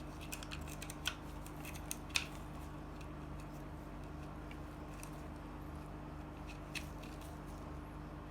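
A few light, sharp clicks and taps scattered over a steady low hum, the loudest about two seconds in.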